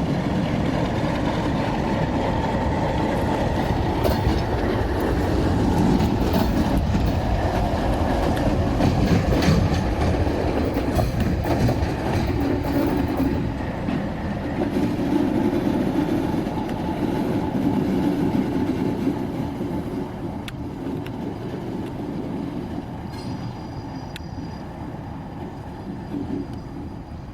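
Freight train moving slowly during switching: a locomotive with coil cars rumbling along the track, with wheels clacking and clanking over the rails. The sound grows quieter over the last several seconds.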